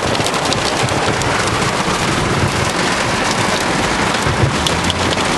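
Heavy storm rain pelting the roof and windscreen of a large 4WD: a dense, steady hiss of drops with many sharp individual hits.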